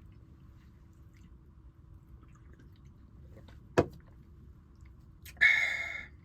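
A person drinking Pepsi: quiet sips, one sharp click nearly four seconds in, then a short breathy exhale after the drink about a second and a half later.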